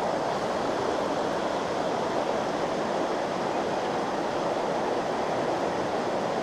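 Steady rushing of stream current, an even wash of water noise with no breaks.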